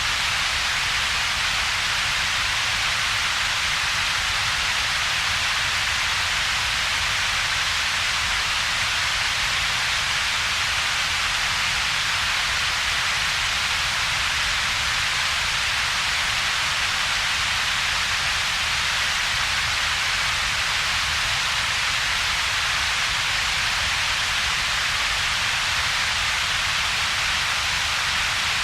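Steady computer-generated double-peaked noise: an even hiss with two humps, a band centred around 2–4 kHz and a low rumble below about 200 Hz, with a hollow between them. It does not change.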